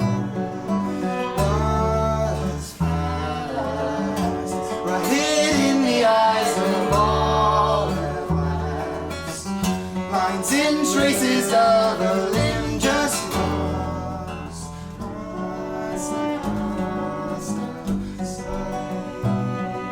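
Live acoustic folk band playing an instrumental passage: acoustic guitar with bass holding long low notes and a viola playing a melody that slides in pitch.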